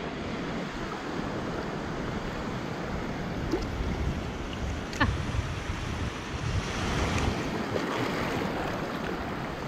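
Ocean surf washing and breaking in the shallows, with wind buffeting the microphone. There is one brief sharp knock or splash about five seconds in.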